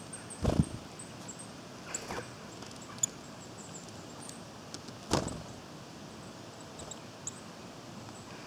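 Small woodland birds giving many short, very high, thin call notes, with two soft thumps, about half a second in and about five seconds in.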